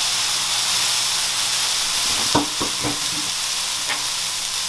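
Chicken seekh kebabs sizzling in oil on a hot electric griddle, a steady frying hiss on high heat just after oil has been drizzled over them. A few quick knocks about halfway through.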